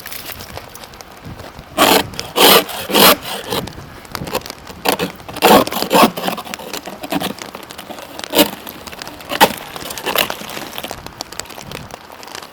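Ice scraper scraping and chipping a glaze of freezing-rain ice off a car, in irregular scratching, cracking strokes. The loudest come in clusters about two to three and a half seconds in and around six seconds, then a few single strokes.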